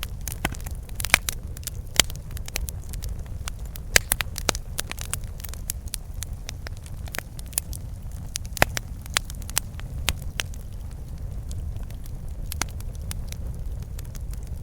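Campfire burning, wood crackling and popping with sharp snaps, busiest in the first half, over a steady low rumble.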